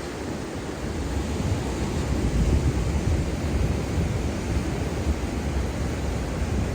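Ocean surf washing steadily onto a beach, with wind buffeting the microphone in uneven low gusts.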